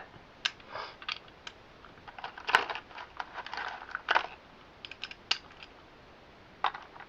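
Irregular small plastic clicks and taps of Beyblade X parts being handled and fitted together.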